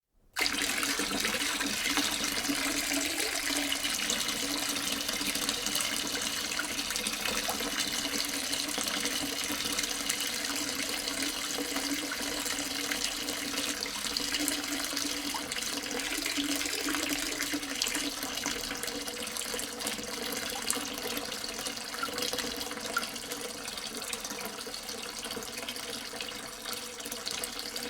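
Tabletop decorative water fountain running, its water falling and splashing steadily.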